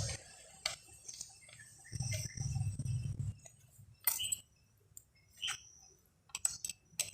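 Metal hand tools and engine parts clinking and tapping against each other in short, separate clicks while a motorcycle engine is put back together. A low, dull rumble lasts about a second and a half, starting about two seconds in.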